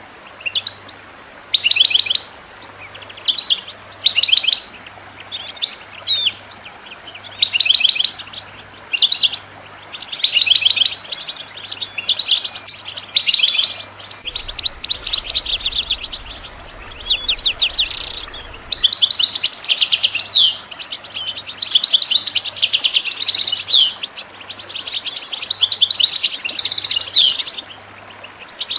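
European goldfinch calling: short, rapid chattering bursts about once a second, running into longer twittering phrases in the second half. These are the excited 'batbata' calls played to stir a silent goldfinch into song.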